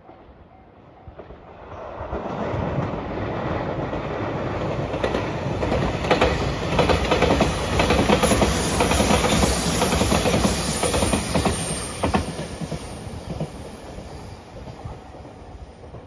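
JR Shikoku 8000 series electric limited express train passing at speed. Its rumble builds over the first couple of seconds and is loudest through the middle, with the wheels clicking over rail joints and a high hiss. It then fades away as the train recedes.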